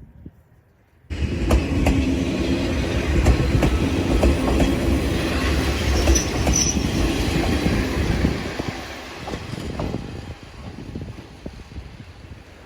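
Eizan Electric Railway electric railcar running on the track, with motor hum and wheels clicking over the rail joints. It starts abruptly about a second in, stays loud for several seconds and then fades.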